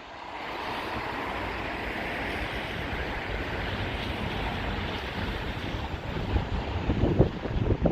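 Gusting sea-front wind, a steady rushing noise, with the wind buffeting the phone's microphone in low rumbles near the end.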